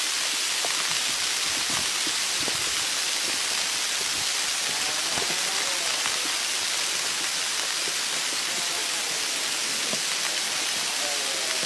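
Heavy rain falling steadily, an even hiss with a few faint light knocks.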